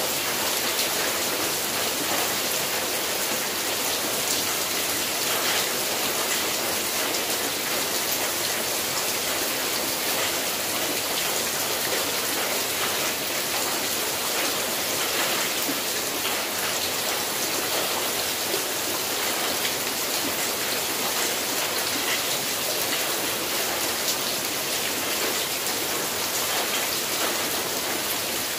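Rain falling steadily on a corrugated zinc roof: a dense, even patter of drops, without letup.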